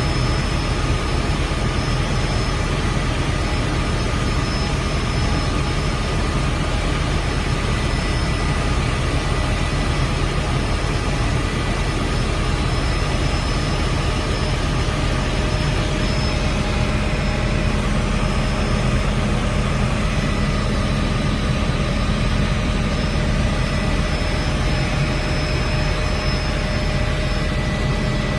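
Helicopter turbine engine and rotor running steadily, a constant rumble with several high whining tones over it.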